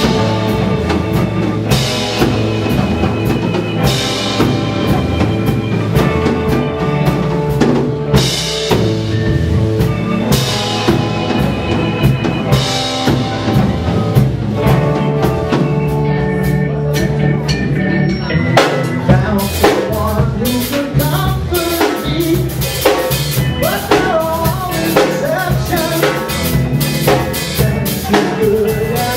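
A live rock band playing on drum kit and pitched instruments. Held notes are punctuated by cymbal crashes about every two seconds, then the drums settle into a busier, steady beat about two-thirds of the way through.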